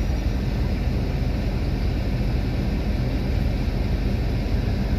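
Steady low rumble of a car, with no distinct knocks or changes.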